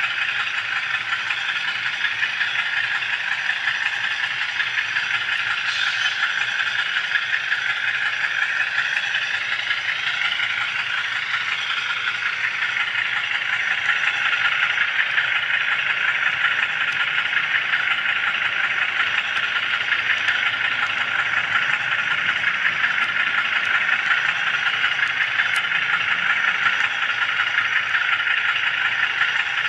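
HO scale model train and camera car rolling along the track, close to the microphone: a steady rattle and hiss of small wheels and motor.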